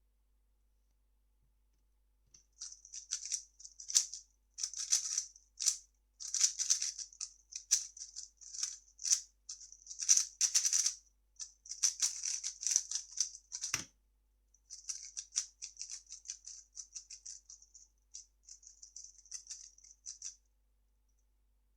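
3x3 speed cube being turned rapidly, its layers clicking and rattling in quick flurries. One sharp thump comes about 14 seconds in, then the turning resumes more lightly for several seconds.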